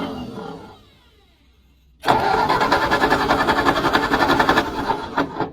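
Old engine being revived after long disuse: it runs, then dies away within the first second, as it loses fire. About two seconds in it starts again with a sudden loud, even, rapid beat, runs for about three seconds and fades out near the end.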